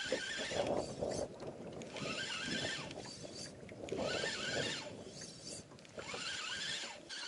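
Birds calling over and over, each call a high, arching note, over a low rustling and handling noise.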